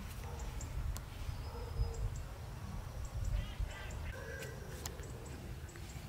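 Birds chirping in short, high, repeated notes, with a louder bird call about three seconds in, over a steady low rumble; two sharp knocks, about one second in and near the end.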